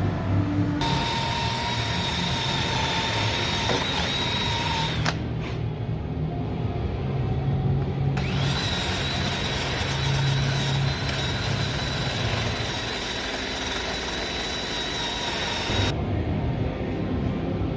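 Power tool running with a steady high whine in two long runs, one of about four seconds and a longer one of about eight seconds, each starting and stopping abruptly, with a pause between.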